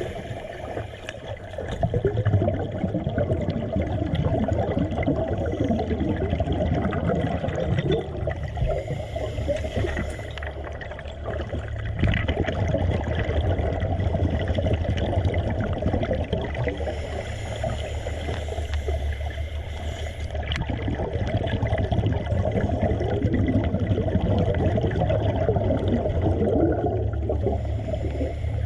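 Water gurgling and rushing over a steady low hum, swelling and easing in loudness.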